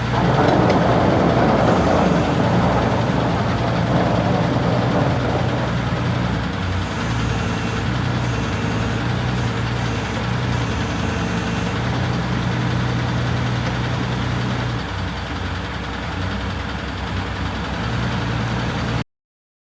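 Mitsubishi SD40 forklift's engine running steadily, somewhat louder for the first few seconds, then settling; the sound cuts off abruptly near the end.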